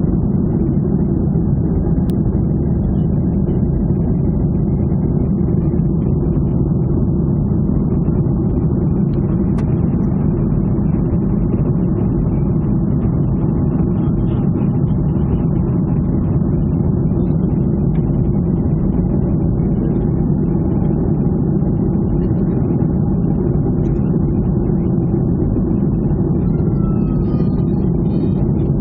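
Steady low drone of a jet airliner heard from inside the passenger cabin: engine and airflow noise holding level throughout.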